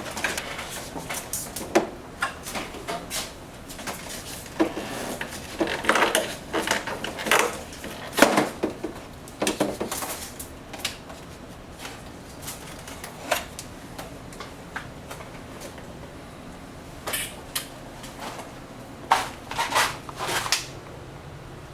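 Plastic air-conditioner parts clicking, clacking and knocking irregularly as they are handled and taken apart during drain-pan disassembly, busiest in the first half, then sparse, with a short flurry of clicks near the end.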